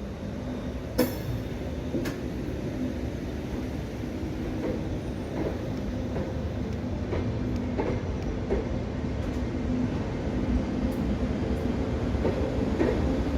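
EFE train unit UTS610 running with a steady drone and hum that slowly grows louder, with scattered sharp clicks, the loudest about a second in.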